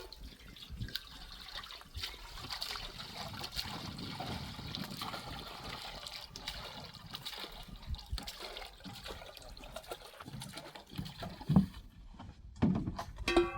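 Liquid trickling and splashing, most likely water being poured. The sound swells about a second in and fades out by about ten seconds, followed by a few knocks near the end.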